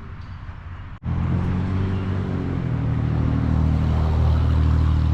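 A car engine running: a steady low hum that cuts in abruptly about a second in, after a brief dropout, and grows somewhat louder.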